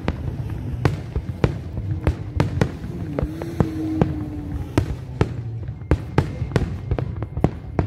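Aerial firework shells bursting in a rapid, irregular string of sharp bangs, several a second, over a steady low rumble.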